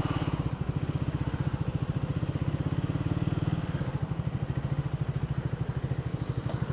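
Single-cylinder motorcycle engine idling with a steady, rapid low thumping.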